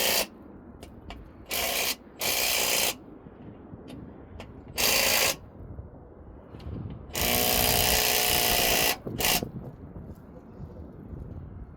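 A power tool run in about five short bursts, the longest nearly two seconds long about seven seconds in.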